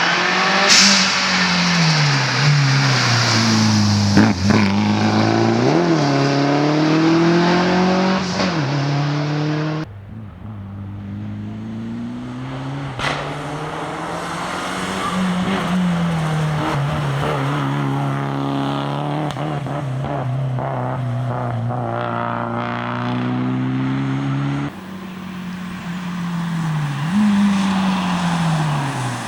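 Toyota Celica rally car engine revving hard, its pitch climbing and dropping again and again as it is driven at speed through the gears. The sound cuts abruptly twice, about ten and twenty-five seconds in.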